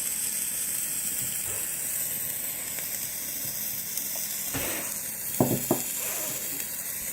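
A hand-held sparkler burning with a steady fizzing hiss. There is a brief louder burst about four and a half seconds in, and two short sounds just after.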